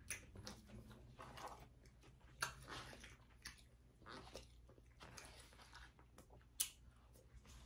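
Faint chewing, with scattered sharp clicks of a plastic fork against a black plastic takeout bowl, the sharpest near the end.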